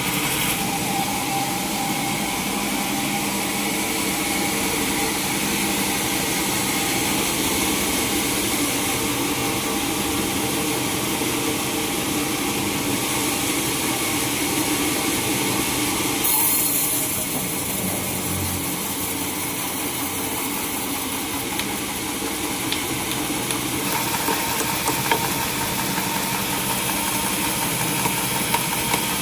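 Sawmill machinery running steadily, with a motor's drone and a hiss. The sound shifts in character about halfway through and again about two-thirds of the way in, with a few light knocks near the end.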